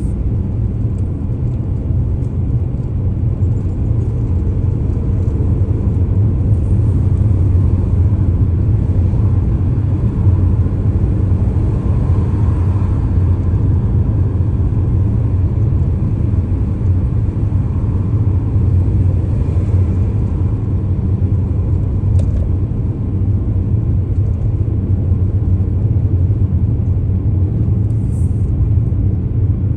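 Steady low rumble of a car driving: engine and tyre noise on the road.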